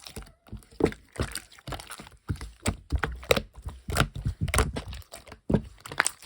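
Clear slime being squeezed and pressed by hand, giving irregular sticky pops and crackling clicks several times a second.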